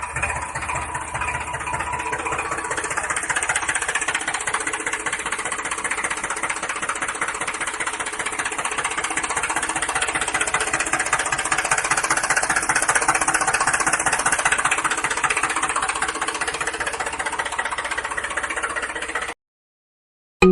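Small motor of a DIY mini tractor running steadily with a fast, even rattle from its gearing, cutting off suddenly near the end.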